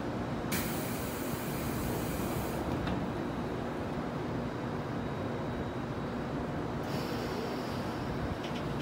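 JR Kyushu 811 series electric train standing at the platform with the steady hum of its onboard equipment. About half a second in comes a two-second burst of air hiss as the doors close, with a knock as they shut just before three seconds in, and a second, shorter air hiss near the end.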